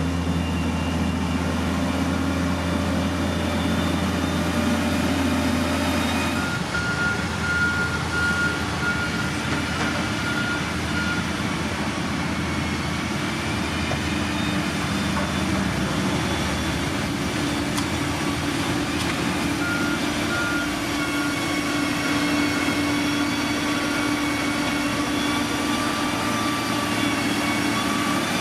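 Heavy construction machinery engines running steadily, with a reversing alarm beeping in short repeated pulses for several seconds and again briefly later.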